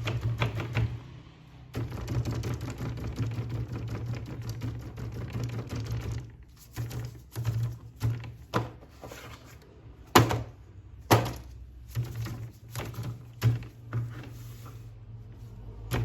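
Hard plastic toy parts and packaging being handled: a busy clatter at first, then separate sharp clicks and knocks, the loudest two about ten and eleven seconds in, over a low steady hum.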